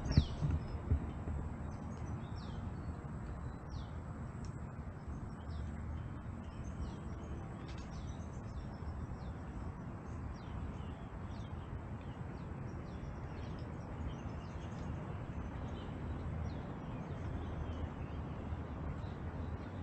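Birds chirping over and over, short falling notes about once a second, over a steady low rumble, with a few thumps right at the start.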